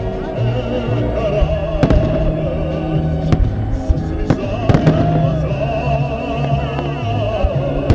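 Fireworks salute going off with several sharp bangs over loud music playing.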